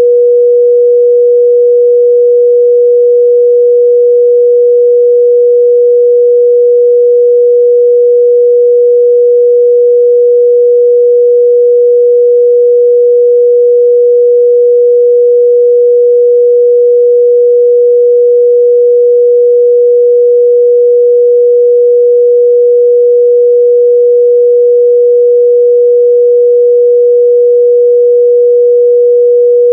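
A steady 484 Hz sine-wave test tone: one pure, unchanging loud pitch with no harmonics, used to check speaker and headphone mid-range response.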